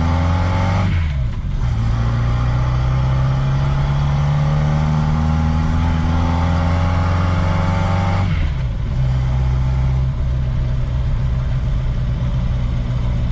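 1969 Reliant Regal's four-cylinder engine pulling through the gears on the road. The engine note climbs, drops at a gear change about a second in, climbs steadily for about seven seconds, then drops at another gear change and settles to a steady note.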